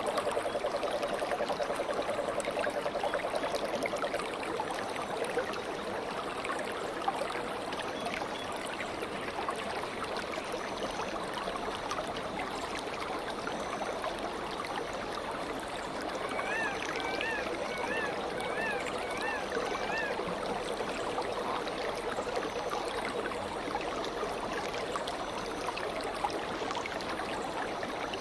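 Stream water flowing steadily. Around two-thirds of the way in, a bird calls a quick run of about six repeated chirps.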